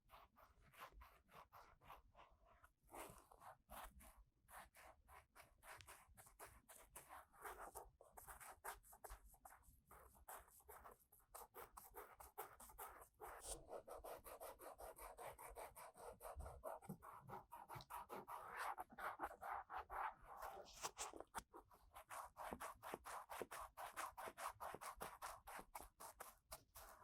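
Ear-cleaning tool scraping and rubbing inside the ear of a 3Dio binaural microphone, a fast, continuous run of soft, short scratchy strokes, heaviest about two-thirds of the way in.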